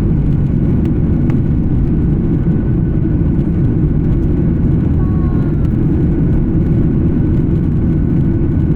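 Steady, deep cabin noise of an Embraer 175 regional jet in flight: its engines and the air rushing past the fuselage, heard from a window seat. A faint steady whine rides on top of it.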